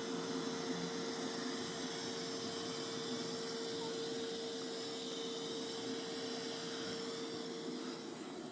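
Mova Z60 robot vacuum running: a steady hiss from its suction fan with a constant droning tone, getting a little quieter near the end.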